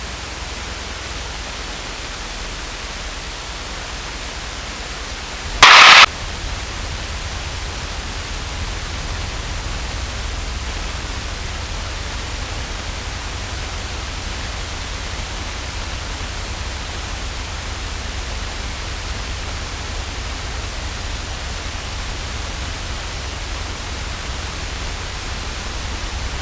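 Steady hiss of static over the aircraft's radio and intercom audio, with a steady low hum underneath. About six seconds in comes one short, loud burst of static.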